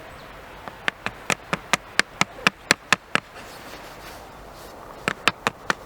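A quick run of sharp taps, about five a second, stopping for about two seconds and starting again near the end.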